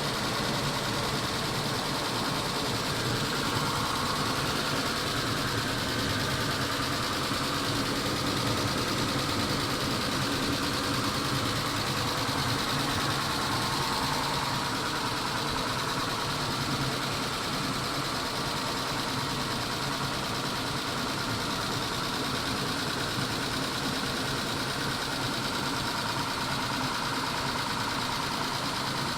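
Mitsubishi 6G72 V6 engine idling steadily with a fast, light ticking from the valvetrain. The owner suspects the ticking is the hydraulic lifters tapping when hot, though he wonders whether the engine is simply worn.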